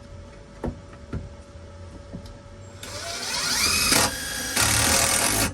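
A couple of light clicks, then a power drill driving a small self-tapping sheet metal screw through a patch panel into the floorpan. The motor spins up with a rising whine about three seconds in, runs in two spells with a short break, and stops suddenly near the end.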